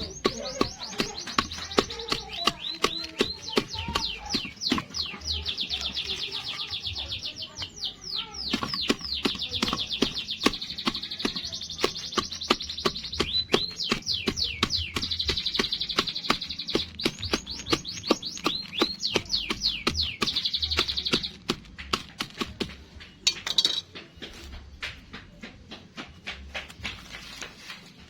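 A bird chirping in fast runs of repeated high notes, several long runs over about twenty seconds that then stop, with many sharp clicks throughout.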